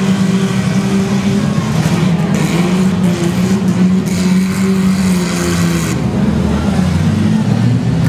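Engines of compact demolition derby cars running loud and revving, with a scratchy higher noise laid over them from about two to six seconds in.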